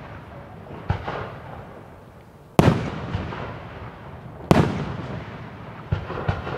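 Aerial firework shells bursting in a display: four sharp bangs spaced about one and a half to two seconds apart, each trailing off in a rolling echo, with a few smaller cracks near the end.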